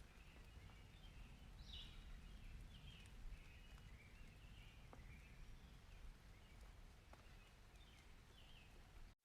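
Very faint outdoor nature ambience: a low rumble under faint high chirps and a few soft ticks. The sound cuts out completely for an instant at the very end.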